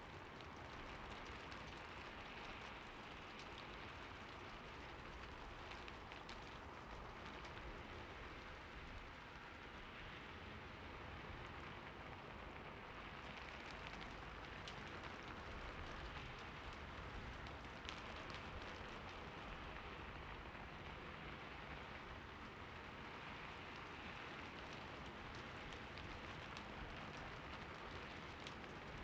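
Steady rainfall: a continuous, even hiss of rain with scattered faint drop ticks.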